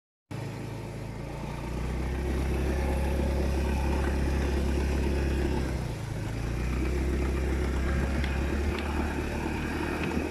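Motorcycle engine running steadily, easing off briefly about six seconds in and then picking up again.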